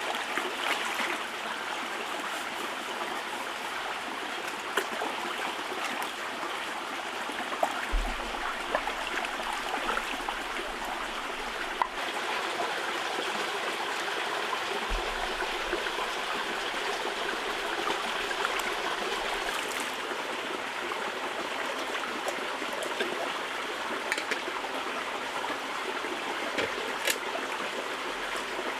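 Steady running, trickling water, with a few light clicks over it.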